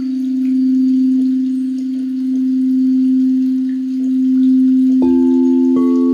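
A singing bowl sings a steady, pure hum that slowly swells and eases. About five seconds in a second bowl is struck, and a moment later a third, each adding its own ringing note over the hum.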